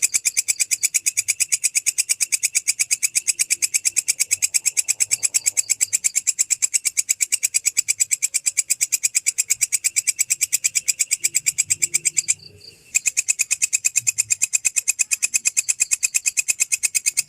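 An insect stridulating: a shrill chirping in rapid, even pulses of about eight a second, with a brief break about twelve seconds in.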